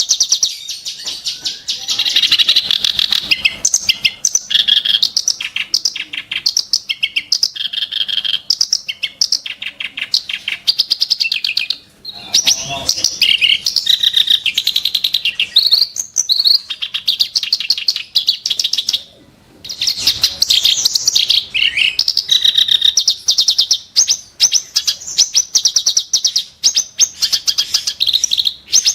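Reed warbler (kerak basi) singing a continuous, fast, harsh chattering song of sharp grating notes. It pauses briefly twice.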